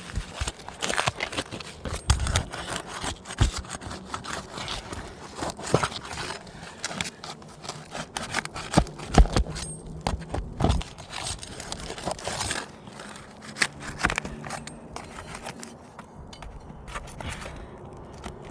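Asphalt roof shingles being worked loose: irregular scraping, crackling and sharp clicks as the shingle matting tears and nails let go.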